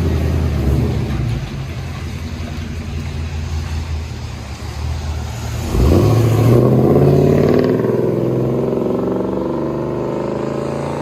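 The 6.0-litre V8 of a 2003 Chevy Silverado 2500HD runs through a single Flowmaster FlowFX muffler, first with a steady low rumble. About six seconds in, the exhaust note jumps louder and climbs steadily in pitch as the engine accelerates.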